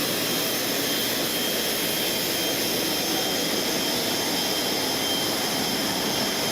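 Steady jet turbine noise, an even rush with a thin high whine over it.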